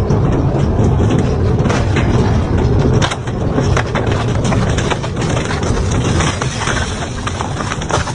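Double-shaft industrial shredder running under load, its rotors grinding and tearing scrap with a heavy rumble and constant sharp cracks and snaps of metal breaking. It eases off slightly about three seconds in.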